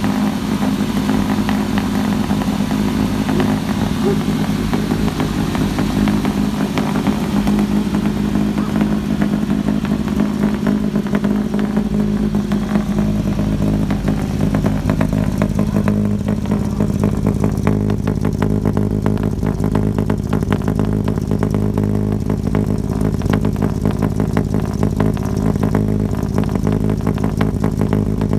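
The carbureted engine of a 1953 GMC 9500 two-ton truck running steadily as it warms up after a cold start; its note shifts slightly about halfway through.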